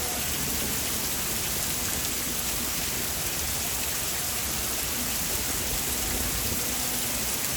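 Heavy rain falling steadily, an even hiss of rain on the ground and surfaces.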